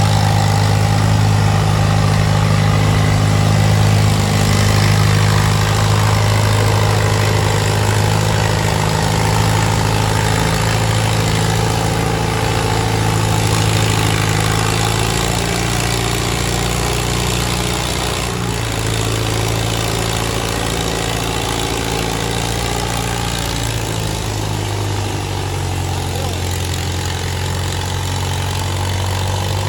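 Antique tractor engine running at a steady speed, a deep even drone with no revving up or down.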